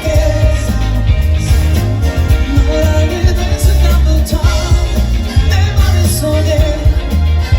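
Live pop-rock band playing, with a sung melody over heavy bass and drums.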